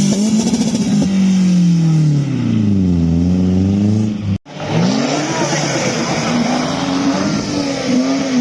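Car engine revved hard and held at high revs, the pitch sagging and climbing back. It cuts off abruptly about four and a half seconds in, then the revs rise and are held again.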